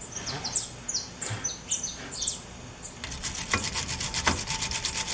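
Fast back-and-forth scrubbing on the top of a VW Beetle's front suspension ball joint, cleaning off caked mud. It starts about three seconds in at roughly eight strokes a second. Birds chirp in the first half.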